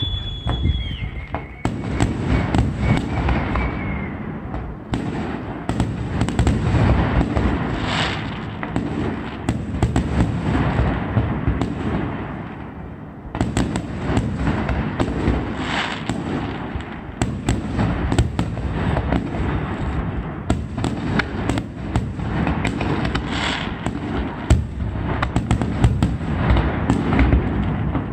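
Aerial fireworks display: a dense, continuous barrage of bangs and crackles, with a whistling tone over the first few seconds and a brief lull about twelve seconds in before the barrage picks up again.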